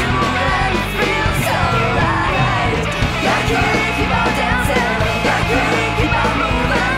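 Punk rock song with a full band of electric guitars, bass and drums and a woman singing over it.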